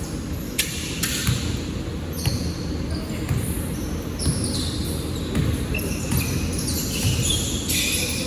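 A basketball bouncing on a court during play, in irregular dribbles, mixed with short high squeaks.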